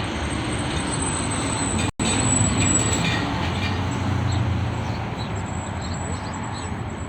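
Loud, steady rumble of heavy street traffic, with vehicles passing close by; the sound drops out for an instant about two seconds in.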